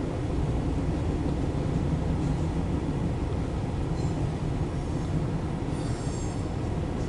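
Loaded autorack freight cars rolling past, a steady low rumble of wheels on rail. Faint high-pitched wheel squeal comes in near the end.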